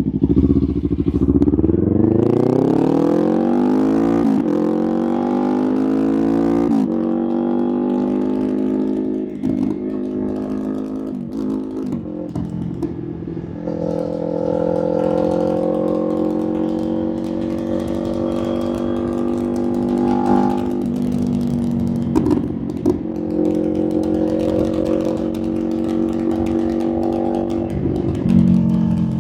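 Motorcycle engine accelerating hard through the gears: its pitch rises and drops back at upshifts about four and seven seconds in. It then runs at a steadier speed with small throttle changes and a few more shifts.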